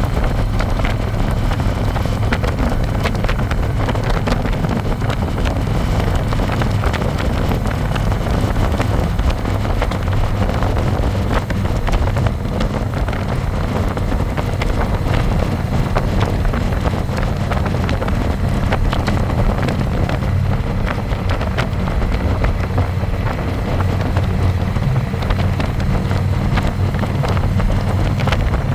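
Harley-Davidson Electra Glide's V-twin engine running steadily on the road, heard from the pillion seat, with wind buffeting the microphone.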